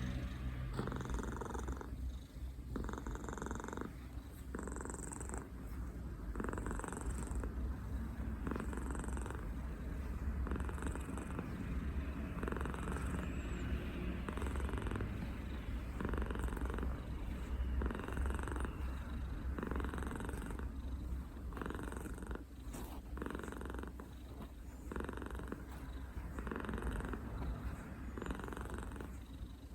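A senior domestic cat purring steadily and close up while its belly is massaged. The purr swells and fades with each breath, about every second or two.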